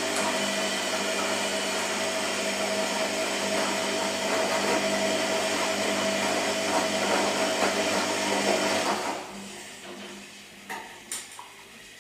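Washing machine running, a steady motor whine over a noisy rush, which cuts off about nine seconds in; two short clicks follow near the end.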